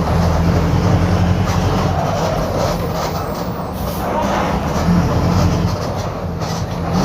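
Mercedes-Benz OF-1721 BlueTec 5 bus diesel engine running on the move, with a holed exhaust, heard loud and steady with slight dips in level along the way.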